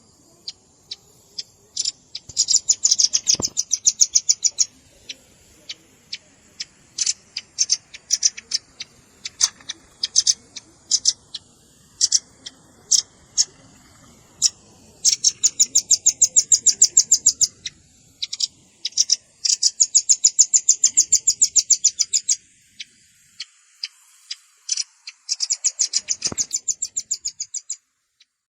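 Velvet-fronted nuthatch calls: rapid, high chattering trills of sharp notes, each lasting two to three seconds and repeated several times, with scattered single chips in between.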